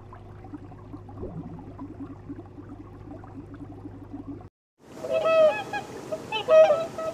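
Loud honking calls of waterfowl, repeated several times, starting about five seconds in, with the loudest about a second and a half later. Before them a quieter steady low hum with faint crackling runs until a brief dropout.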